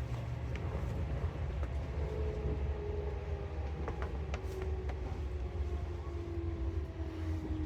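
Seibu 4000 series electric train slowing to a stop: a steady low rumble, with a motor and gear whine falling slowly in pitch as it brakes, and a few sharp clicks.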